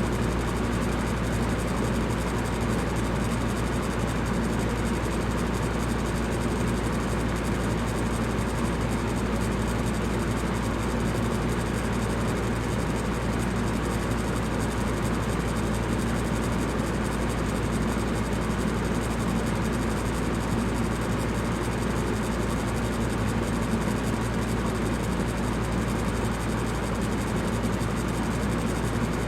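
Electric fan running steadily: an even whoosh of moving air over a low, constant motor hum.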